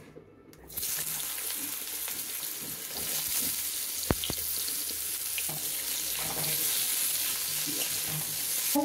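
Diced potatoes sizzling in hot oil in an iron kadai; the sizzle starts suddenly about a second in and then runs steadily. A single sharp click about halfway through, and a spatula stirring the potatoes near the end.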